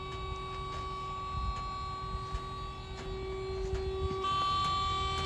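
Dump trailer's electric-hydraulic pump running with a steady whining hum as it raises the cantilever bed under a load of wood, its tone changing and getting slightly louder about four seconds in.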